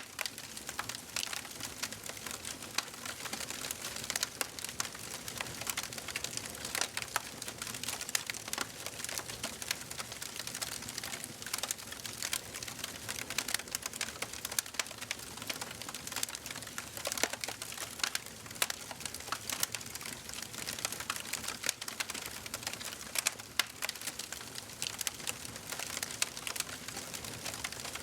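Wood fire crackling in a fireplace: a dense, irregular run of small pops and snaps over a steady soft hiss.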